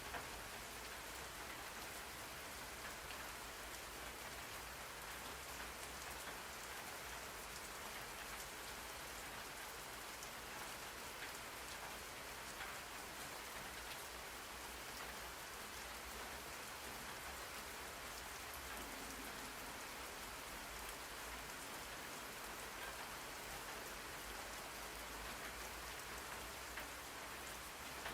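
Steady rain ambience: an even hiss of rain falling on a surface, unchanging throughout.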